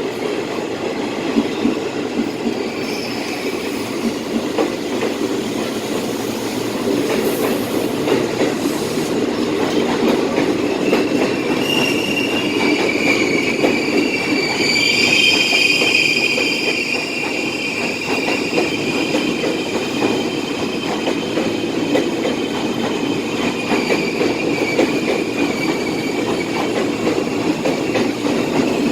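KRL electric commuter train running over station track, with a steady rumble and wheel clatter. About twelve seconds in, the wheels begin a high squeal that is loudest a few seconds later and fades out before the end.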